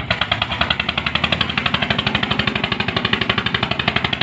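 Engine running hard with a fast, even knocking beat, about a dozen beats a second.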